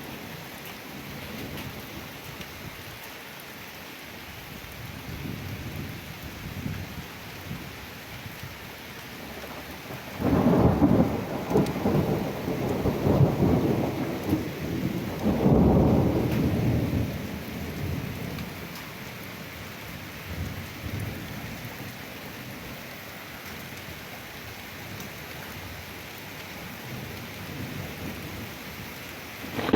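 Thunderstorm: steady rain hiss with rolling thunder. A low rumble builds, then a loud peal of thunder breaks suddenly about a third of the way in, swells again a few seconds later and rolls away, leaving the rain.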